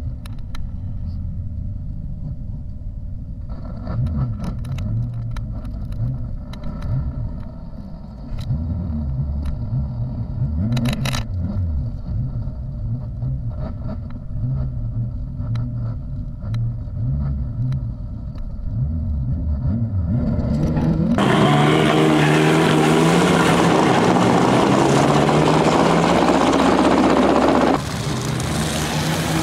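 Turbocharged 4G63 inline-four in a 1989 Dodge Colt, heard from inside the cabin. It idles with an uneven low burble for about twenty seconds, then revs hard under full-throttle acceleration, its pitch climbing steadily for about seven seconds. Near the end it drops abruptly to a quieter, steady engine sound.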